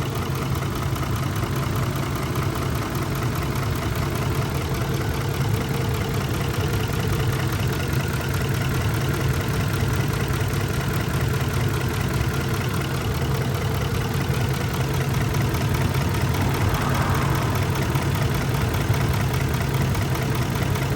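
Ford F-150's 5.4-litre V8 idling steadily while its ignition coils are checked one by one for a misfire.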